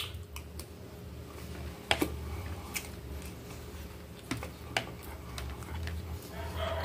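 Close-miked chewing of a mouthful of rice and farofa, with irregular sharp clicks and taps, about one a second, from the mouth and from the fork and spoon on the plate.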